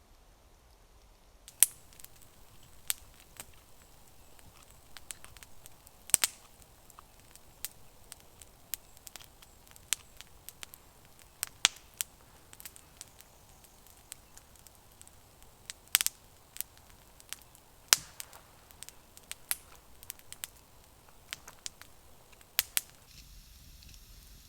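Campfire crackling, with many irregular sharp pops, a few much louder than the rest, over a faint hiss.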